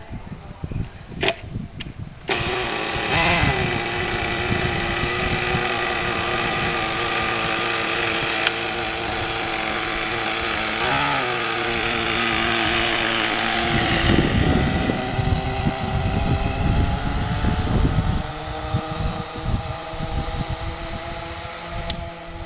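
Small single-cylinder internal-combustion engine of a radio-controlled car catching about two seconds in and running at high revs with a high buzzing whine, briefly dipping in pitch near the middle. It grows quieter near the end as the car moves off.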